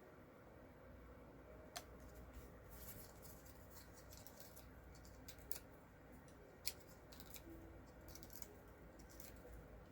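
Faint, scattered snipping and rustling of cardstock being cut and handled, with two sharper clicks, one near two seconds in and one about two-thirds of the way through.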